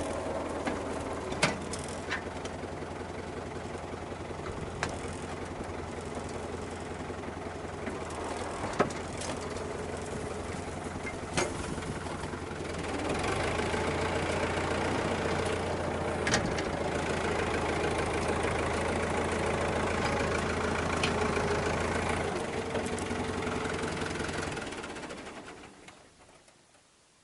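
Tractor engine running steadily with occasional sharp metal clanks. It gets louder about halfway through, then dies away near the end.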